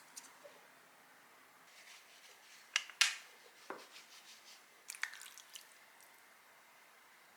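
Scattered light clicks and taps of small objects being handled, with the sharpest knocks about three seconds in and a quick cluster of taps about five seconds in.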